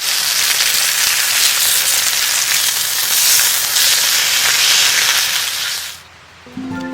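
Food sizzling and frying in a hot pan, a loud steady hiss that cuts off suddenly about six seconds in. Acoustic guitar music starts just after.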